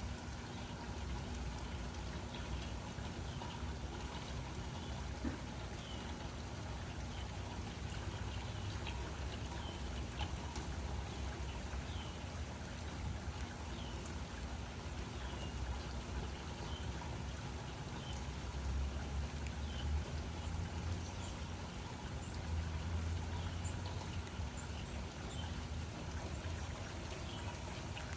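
Steady rain falling with scattered close drips. A low rumble swells twice in the second half.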